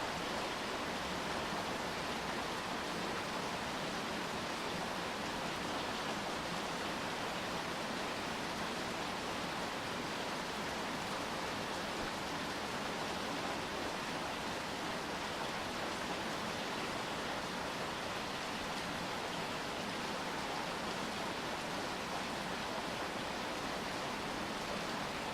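Steady rain, an even hiss without separate drops standing out.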